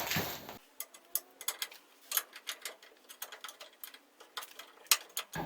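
Small sharp metallic clicks, irregular and in little clusters, as a nut is worked onto a bolt with a hand spanner.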